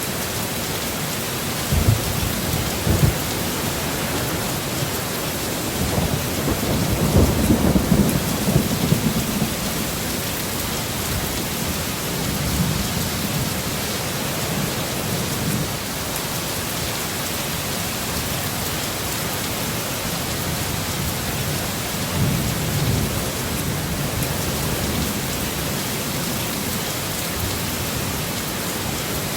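Heavy steady rain with thunder rumbling several times, loudest about six to ten seconds in.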